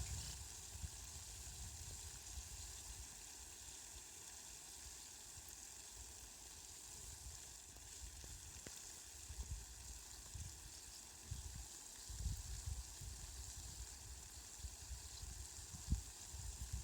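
Steady rain falling, a faint, even hiss, with irregular low rumbles coming and going underneath.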